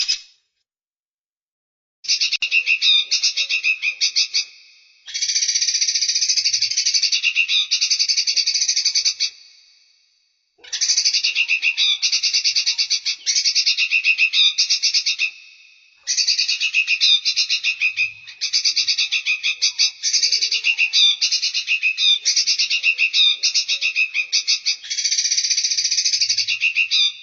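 Songbird giving long runs of fast, chattering trills, with brief silent breaks between the runs. It is a clean masteran recording of bird song used to train captive songbirds.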